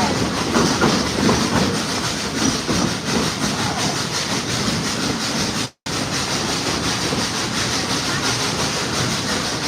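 Passenger train coach riding along the track: a steady running rumble and clatter of wheels on rails. The sound cuts out completely for a split second a little over halfway through.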